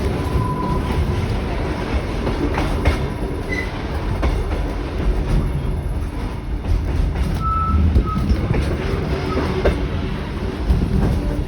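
Train running along the Kuranda Scenic Railway: a steady low rumble with scattered clicks from the track, and a few short wheel squeals, near the start, about three and a half seconds in, and twice around seven to eight seconds.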